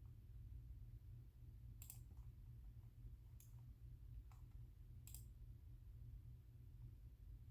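A few sharp, isolated clicks at a computer desk, from key or mouse-button presses, about four spread between two and five seconds in. A steady low hum runs beneath them.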